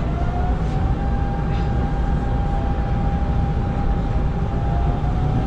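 Hanshin 5500 series electric train running, heard inside the cab: a steady low rumble from the wheels and track, with an electric motor whine that rises in pitch in the first second and then holds steady.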